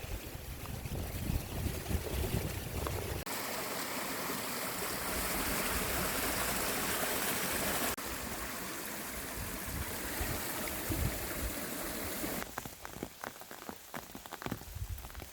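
Water rushing steadily in a stream, heard across a few cut-together shots, with a low wind rumble in the first shot. Near the end the water drops lower and a run of short crackles and clicks comes through.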